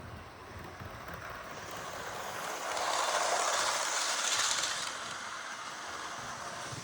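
A model train passing close by: the rolling rush of its wheels on the track and its running gear swells to a peak about halfway through, then fades as it moves away.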